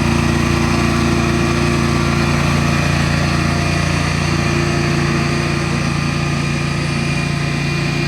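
Tractor engine running steadily at a constant idle-like speed.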